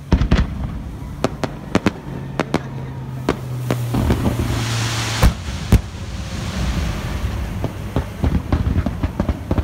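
Fireworks display: a quick run of sharp bangs from shells bursting, with a dense hissing crackle from a low barrage around the middle. A steady low hum runs underneath.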